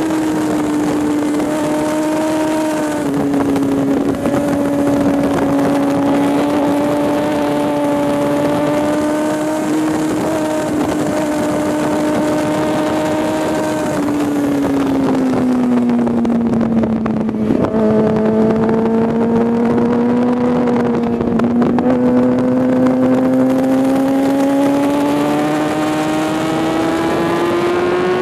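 Sport motorcycle's engine running hard at high revs, with wind rushing over the bike-mounted microphone. The engine note holds fairly steady, sags lower through a long corner past the middle, then climbs steadily near the end as the bike accelerates onto the straight.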